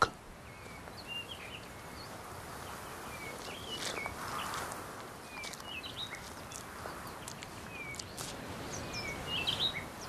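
Outdoor ambience of small birds chirping: scattered short calls, many falling in pitch, over a steady soft hiss.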